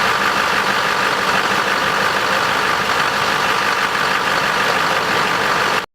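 6.6 Duramax V8 turbodiesel idling, a steady running sound that cuts off suddenly near the end.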